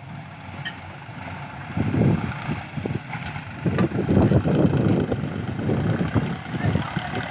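Heavy diesel machinery engine running, with rough, louder surges of low rumbling about two seconds in and again from about three and a half to five seconds, as the engine works under load.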